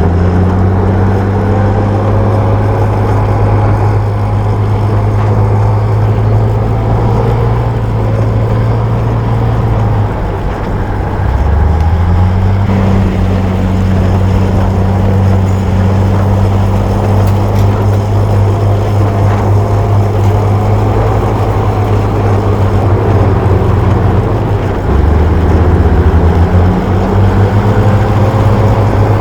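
Bulldozer's diesel engine running hard under load with a steady low drone. Around ten seconds in it eases briefly, then the revs climb back up over the next two seconds; it dips and picks up again near the end.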